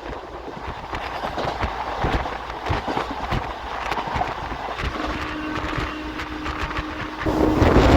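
Indian Railways intercity express coach running along the track, heard from a window seat: a steady running rumble with scattered clicks and clatter of the wheels. A faint steady hum comes in about five seconds in and stops a couple of seconds later, and wind noise on the microphone rises near the end.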